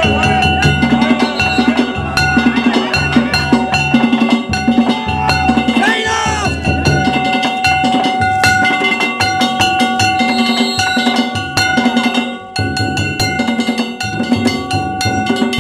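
Danjiri float festival music: a drum beating a fast, steady rhythm with hand gongs clanging and ringing over it.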